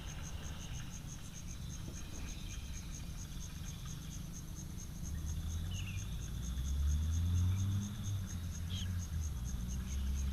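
An insect, a cricket-like chirper, keeps up a steady high chirp of rapid, evenly spaced pulses. Under it, wind rumbles low on the microphone and swells around the middle, with a few faint short bird calls.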